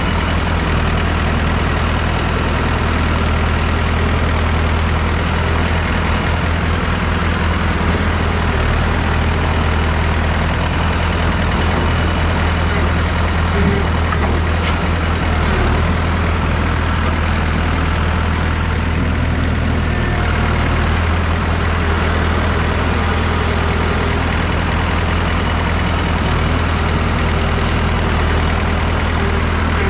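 Massey Ferguson 3165 backhoe tractor's diesel engine running steadily at a constant speed, with a deep, even drone.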